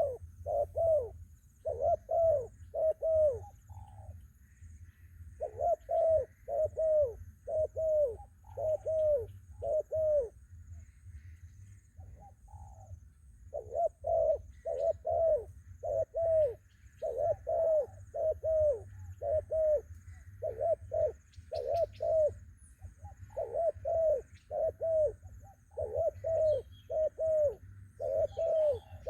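Spotted doves cooing: deep, falling coos repeated in runs of three or four notes, with short pauses between runs. A faint steady high insect buzz and a low rumble lie underneath.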